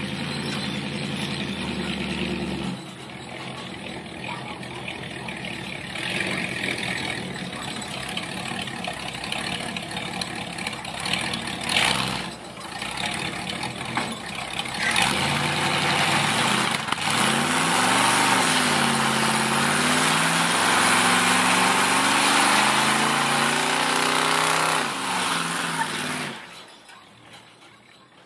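Truck engine running and revving, its pitch rising and falling, joined about halfway through by a loud rushing noise. Both stop a couple of seconds before the end.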